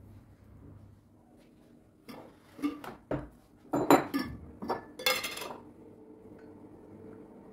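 Kitchenware being handled: a quick series of clinks and knocks about two seconds in, with the last one ringing briefly before it settles.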